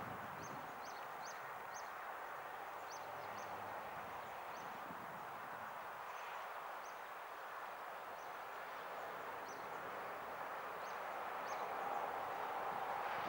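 A small bird chirping in short high notes, several in quick succession early on and a few more later, over a steady distant hum. Near the end a faint tone grows louder as the electric locomotive on the viaduct draws closer.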